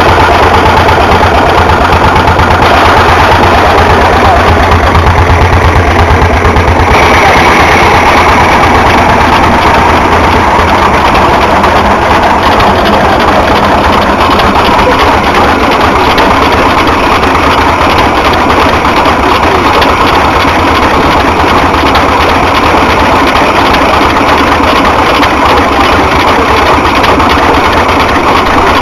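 Stationary engine running steadily and loud, with a fast, even beat.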